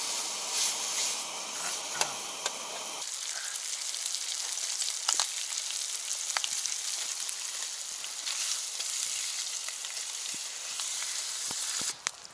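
Food sizzling in a frying pan, a steady hiss with a few sharp pops.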